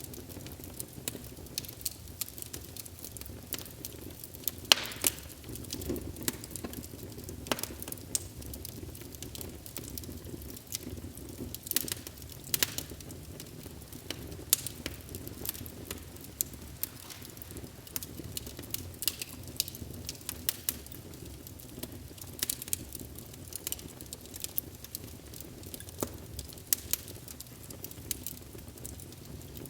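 Wood fire in a fireplace crackling, with a steady low rumble of flame and frequent sharp irregular pops and snaps.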